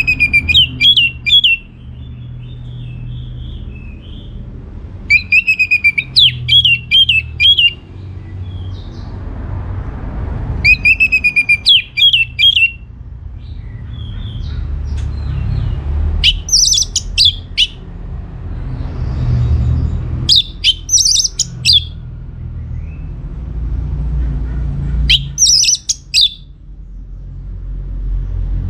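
Orange-headed thrush singing in loud phrases of rapid, high, varied notes, one phrase about every five seconds, each lasting a second or two. A low steady rumble sits underneath.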